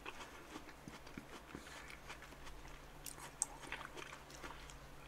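Faint wet chewing and small mouth clicks of someone eating watermelon, with one sharper click a little past the middle.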